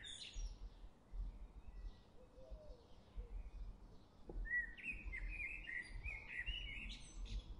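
Faint birdsong: a bird chirping, with a busier run of quick chirps and warbles from about four and a half seconds in until near the end.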